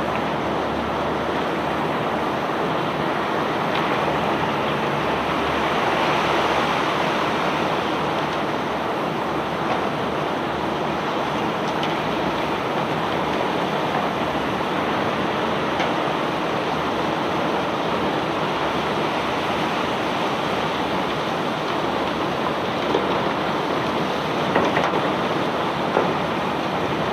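Steady rushing and rattling of cobblestones pouring off a self-unloading barge's discharge conveyor, with a few sharp knocks near the end.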